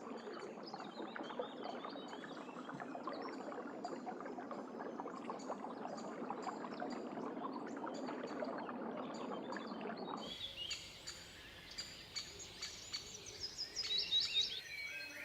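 Outdoor nature ambience: small birds chirping over a steady hissing, crackling background noise. About ten seconds in the background noise cuts off suddenly, leaving the birdsong, with a few louder calls near the end.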